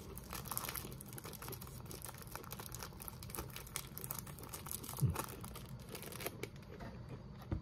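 Packaging crinkling and rustling as it is handled, a fine irregular crackle, with a soft thump about five seconds in.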